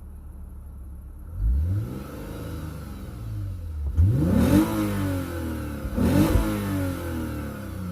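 Lexus IS350's 3.5-litre V6 through an Invidia Q300 axle-back exhaust, idling and then revved three times, each rev rising and falling back to idle; the second and third revs are the loudest.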